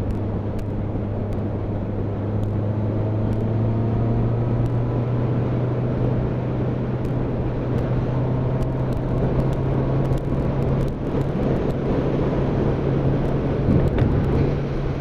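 Motorcycle engine droning steadily at riding speed over a dense rush of wind and road noise, its note rising a little a few seconds in.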